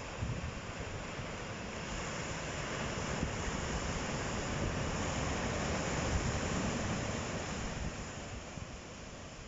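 Sea waves breaking and washing on the shore, the surf swelling over a few seconds and then ebbing away near the end. Wind buffets the microphone with a low rumble underneath.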